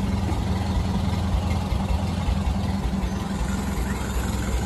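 Ford Model AA truck's four-cylinder engine idling with a steady low rumble.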